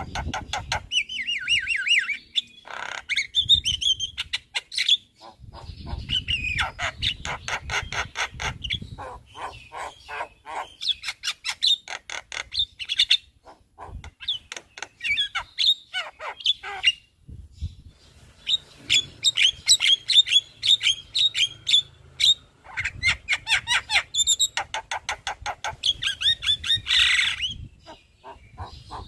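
Javan myna (jalak kebo) singing at full voice: long runs of fast, repeated chattering notes mixed with sharp whistles, broken by short pauses.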